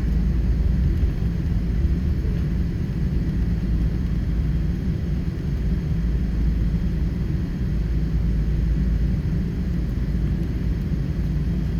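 Steady low rumble of engine and airflow noise heard inside the cabin of a Boeing 777-300 airliner.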